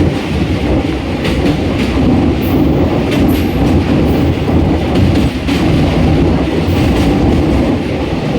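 Train running over a rail bridge: a steady rumble with the clatter of wheels over the rail joints.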